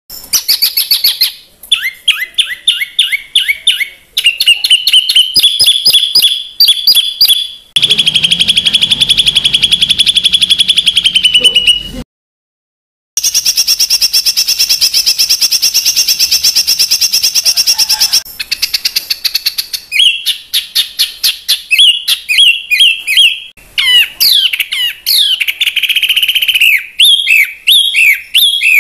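Songbird song clips edited together: fast trills and runs of sharp repeated notes, the harsh rapid 'tembakan' phrases used as master recordings for competition songbirds. The phrases change abruptly at cuts, with a second of silence about twelve seconds in.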